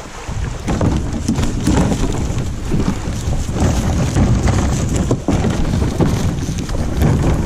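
Wind buffeting the microphone: a loud, uneven low rumble with constant gusty spikes.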